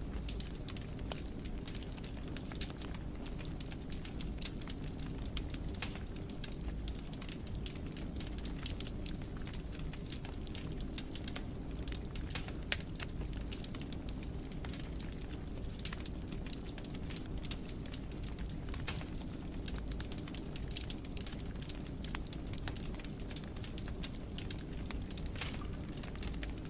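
Fire burning in a fireplace, crackling steadily with many sharp, irregular pops over a low, even background noise of the flames.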